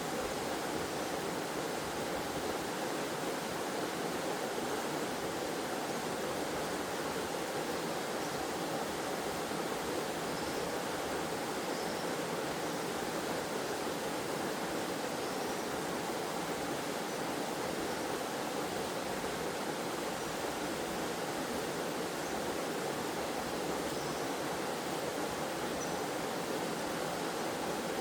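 Small forest waterfall and stream, water falling and flowing in a steady, even rush.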